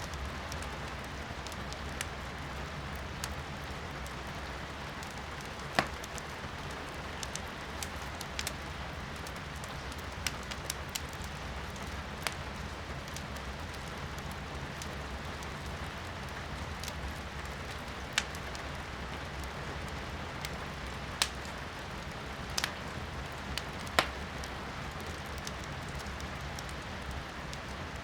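Steady patter of rain heard from indoors, with firewood crackling in a fireplace: scattered sharp pops, the loudest a handful spread through.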